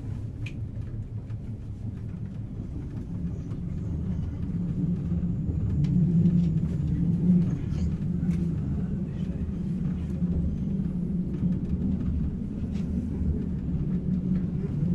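Steady low rumble of a regional train running, heard from inside the passenger car, growing louder over the first few seconds as it picks up speed, with faint clicks from the track.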